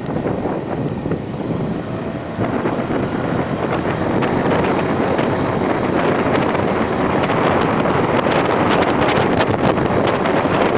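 Wind buffeting the microphone of a moving vehicle on a ride, with the vehicle's running noise underneath; it grows louder about two and a half seconds in and stays loud.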